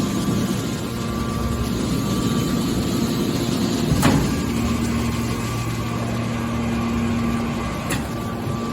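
Hydraulic scrap baler running: the steady hum of its motor and hydraulic pump, with a sharp knock about four seconds in and a fainter one near the end.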